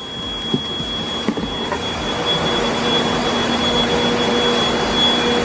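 Deerma cordless vacuum cleaner running with strong suction: a steady rush of air with a constant high-pitched whine.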